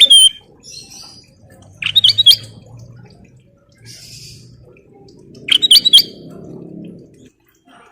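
Ruby-throated bulbul (kutilang emas) singing in three short, loud bursts of clear whistled notes that rise and fall, about two seconds apart.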